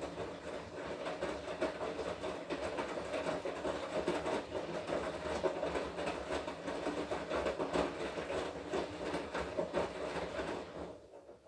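Washing machine in its wash cycle: the motor turns the drum and tumbles the wet laundry with a steady whine and dense clattering, then stops near the end as the drum pauses before reversing.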